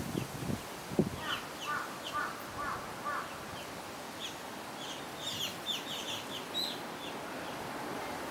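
Birds calling in short chirps: a string of lower chirps over the first few seconds, then a quick run of higher, sharp chirps about five seconds in, over a steady outdoor hiss. A low thump comes about a second in.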